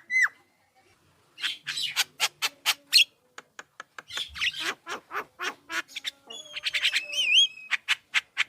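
Javan myna singing a fast, chattering run of harsh squawks and clicks, broken by a short pause near the start, with a few clear, looping whistled notes about seven seconds in.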